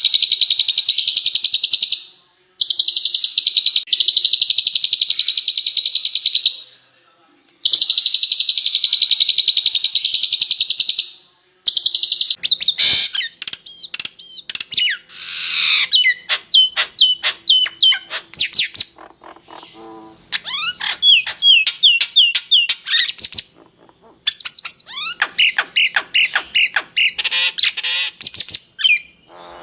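Songbird 'masteran' training recording: three long, dense buzzing trills, each a few seconds long, followed from about halfway by a fast, varied run of chirps, quick up-and-down whistled notes and rapid trills.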